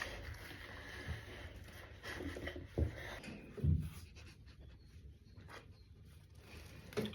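A dog sneezing: two short, sharp sneezes about three seconds in, under a second apart.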